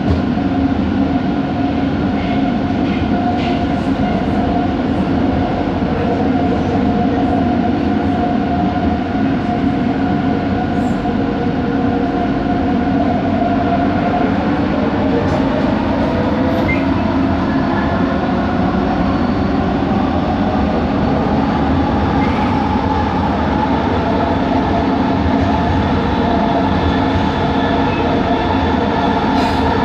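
Bombardier Innovia ART 200 metro car running on the track, heard from inside: a steady rumble with the whine of its linear induction motor, several tones together that shift slightly in pitch about halfway through. A few faint clicks and ticks come over it.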